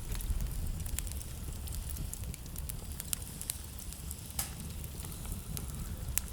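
Wood fire crackling with frequent sharp pops and snaps, two louder ones in the second half, over a steady low rumble.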